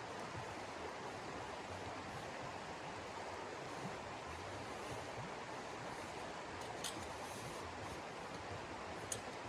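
Steady, even rushing noise with two faint, sharp clicks in the second half.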